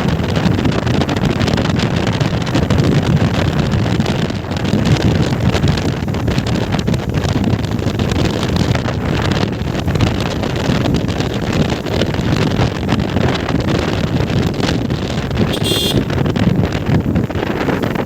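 Wind rushing and buffeting against the microphone of a moving motorcycle, a steady loud rush with the bike's running hidden beneath it.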